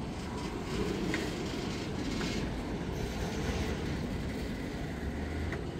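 Freight train cars rolling slowly past, with a steady low rumble of wheels on rail and a few light clicks, as the train brakes toward an unplanned stop.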